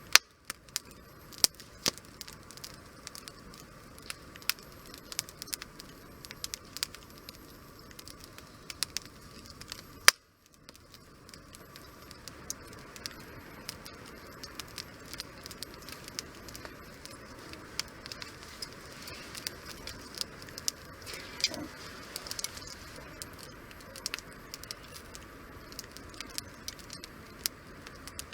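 Wood fire crackling, with sharp irregular pops and snaps from the burning firewood over a low steady hiss. The sound drops out briefly about ten seconds in.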